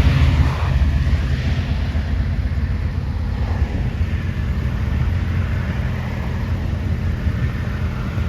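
A car engine running steadily with a low rumble, a little louder for the first half second before it settles.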